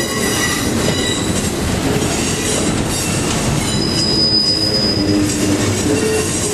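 Long Union Pacific train's cars rolling past, with steady wheel-and-rail rumble and clatter and high-pitched wheel squeal, brightest about four seconds in.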